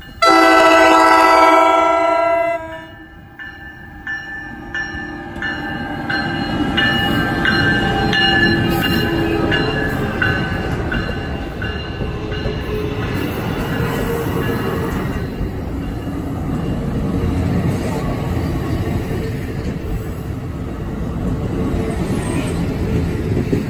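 NJ Transit electric train sounding a long horn blast for the grade crossing, then rolling past close by with a steady heavy rumble of wheels on rail. A crossing bell dings about twice a second under the approach.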